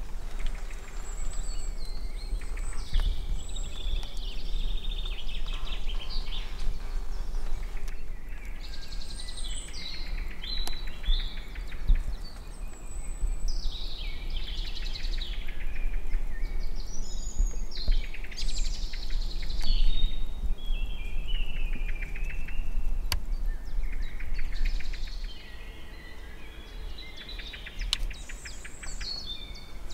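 Songbirds singing, many short chirping and trilling phrases overlapping one another, over a steady low rumble.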